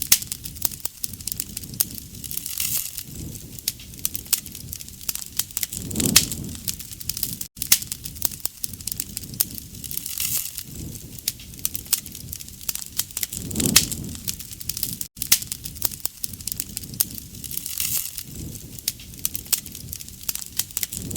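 Wood fire crackling, with many sharp pops and snaps over a soft low rush of flame that swells about every four seconds.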